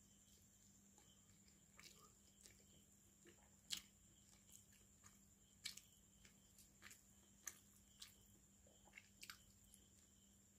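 Close-miked sounds of eating fish curry and rice by hand: faint, irregular wet chewing and smacking clicks, with a sharper smack a little under four seconds in.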